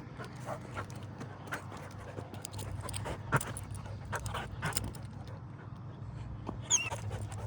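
Goldendoodle panting and whimpering while held back on a leash, with scattered short taps throughout and a high wavering whine near the end.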